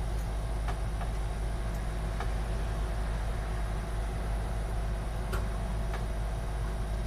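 Steady low hum, with a few faint, sharp clicks and taps of a PC expansion card and its metal bracket being handled and pushed into a motherboard slot.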